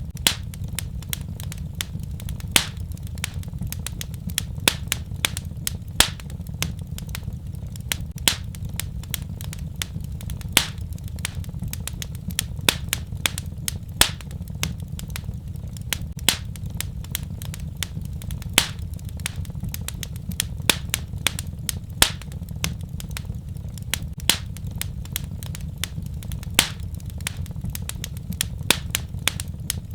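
Wood fire burning in a fireplace, crackling and popping with sharp irregular snaps several times a second over a steady low rumble of flame.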